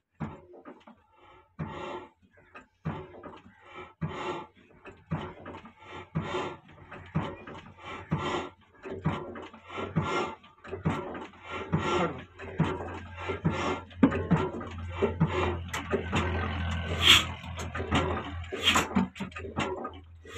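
Old Ruston & Hornsby diesel engine running slowly, each firing stroke a separate exhaust beat. The beats come faster over the first several seconds, settling at nearly two a second, and a low hum builds up in the second half.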